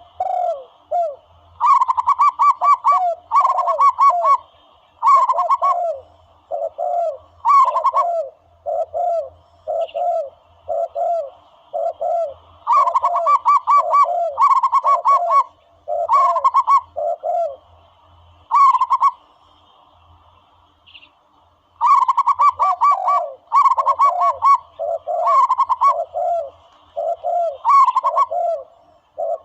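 Recorded zebra dove (bato-bato) calls played as a hunting lure: short descending coos repeated about once a second, with clusters of rapid higher cooing notes laid over them in bursts, and a pause of about two seconds two-thirds of the way through.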